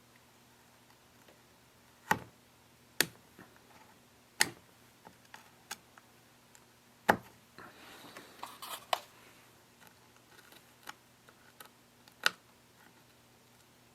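Scattered sharp clicks and knocks, about five loud ones with lighter ticks between, and a brief scraping rustle about eight seconds in: tools and chainsaw parts being handled and set down on a workbench during the repair.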